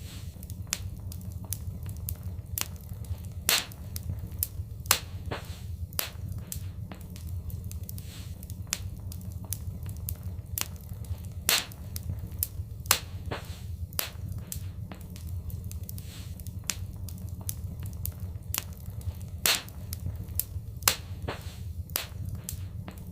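Fireplace fire crackling: irregular sharp pops and snaps, a few much louder than the rest, over a steady low rumble of the burning fire.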